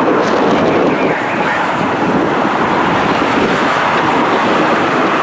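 Steady, loud rushing noise of strong wind on the microphone.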